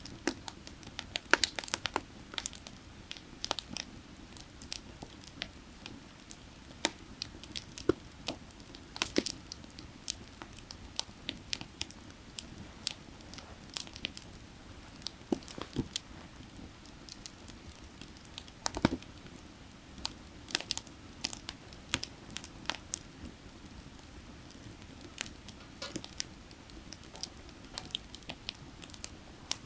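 Burning firewood crackling, with frequent irregular sharp pops and snaps, a few louder than the rest, over the low steady rush of creek water.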